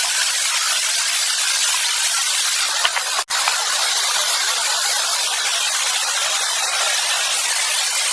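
A steady, loud hiss of even noise, mostly in the upper range, that drops out for an instant about three seconds in.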